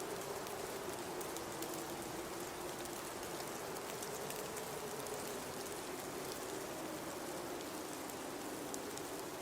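Blizzard wind howling: a steady hiss with a wavering low whistle that slowly sags in pitch, and faint scattered ticks over it.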